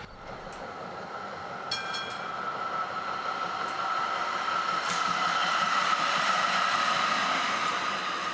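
Melbourne tram running on its rails and drawing closer, its noise growing steadily louder, with a steady high whine over the rumble. A short ringing strike sounds about two seconds in.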